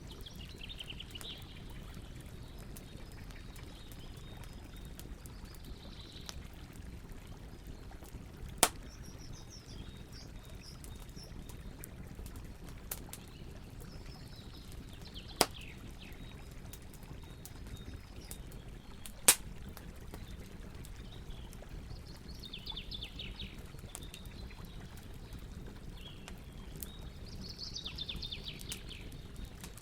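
Campfire burning with a steady low rumble and light crackling, broken by three sharp pops spread through. Short high chirping calls come and go in the background.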